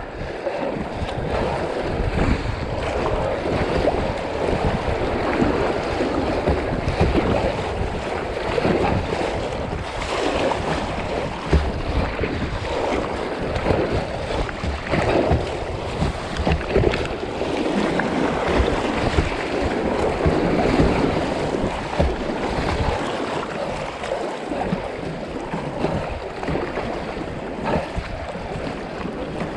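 Fast-flowing river water rushing steadily around a kayak, with wind buffeting the microphone.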